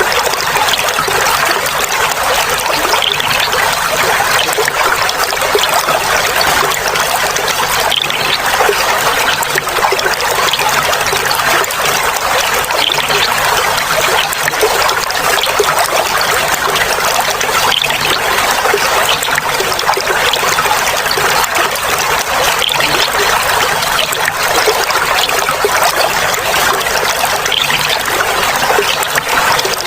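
Clear flowing water trickling and babbling steadily, with no pauses.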